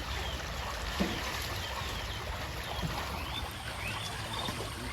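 Rainwater running steadily in a constant rush, with short high chirps scattered over it.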